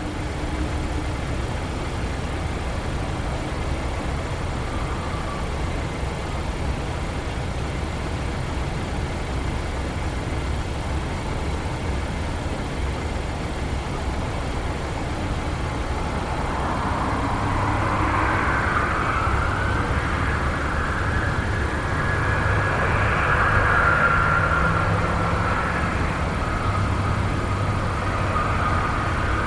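Jet airliner engines with a steady low rumble underneath. About halfway through, a whine joins in and glides in pitch as the sound grows a little louder.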